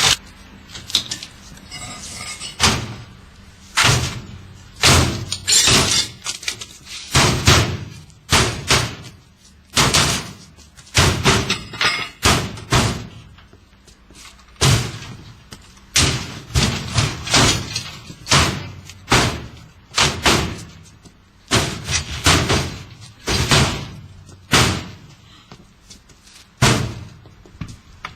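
A washing machine being battered: a long run of hard bangs and slams, roughly one to two a second at an uneven pace, each with a short ringing tail.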